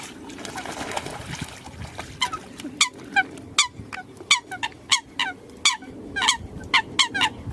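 Eurasian coots calling: a series of short, sharp, falling calls, irregular at about one to two a second. They start about two seconds in, after a stretch of hiss.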